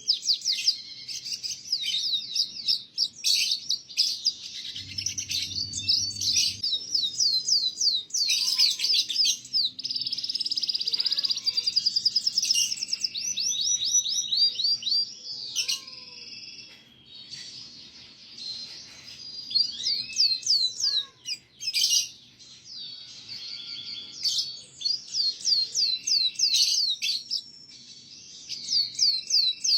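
Canary singing a long, fast song of rolling trills and rapid chirps, broken by short pauses.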